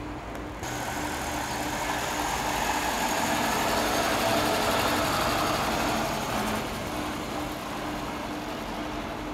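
An old Moskvich sedan's engine running as the car drives slowly past close by, louder as it passes and fading as it pulls away.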